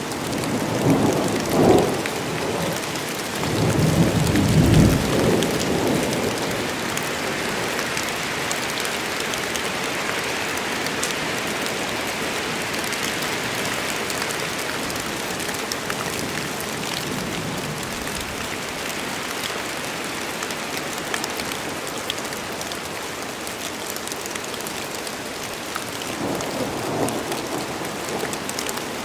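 Steady heavy rain falling in a forest, with rumbles of thunder: two close together in the first few seconds, the second the loudest, and a fainter one near the end.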